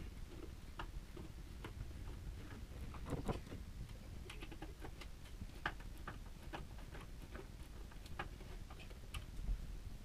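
Faint, irregular light clicks and taps, a few a second, over a low steady rumble.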